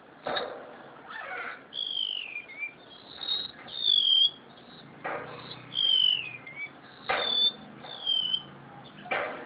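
A caged remetuk laut (cucak sintier or engong, the golden-bellied gerygone) singing a string of clear, high whistled notes, each sliding downward in pitch. A few short sharp knocks come between the phrases.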